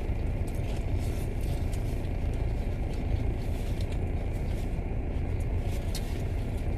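Steady low rumble of a parked car with its engine running, heard from inside the cabin, with a few faint light clicks over it.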